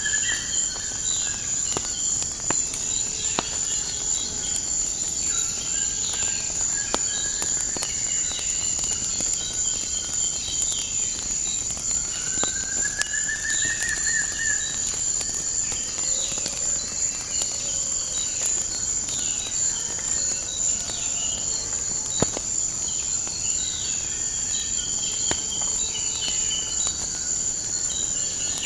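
A steady high insect trill with many birds chirping over it and one longer rising call midway, mixed with scattered crackles and pops of a burning wood fire.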